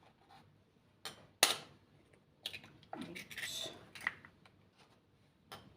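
An egg being cracked: two sharp taps of the shell against a hard edge about a second in, then lighter sounds of the shell being pulled apart and handled, and another sharp tap near the end.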